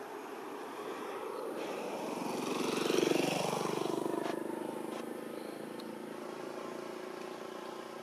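A motor vehicle driving past, its engine growing louder to a peak about three seconds in and then fading away.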